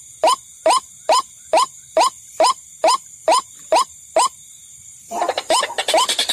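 Bird-lure recording of white-breasted waterhen calls: a rising croak repeated a little over twice a second. It breaks off about four seconds in, and about five seconds in a denser, faster run of calls starts over a noisier background.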